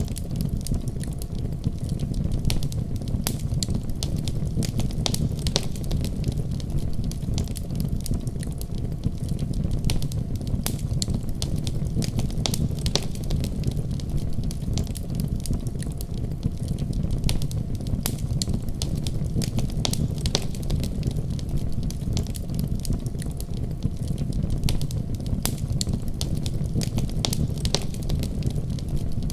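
Fire burning in a fireplace, crackling: irregular sharp pops and snaps over a steady low rumble of flame.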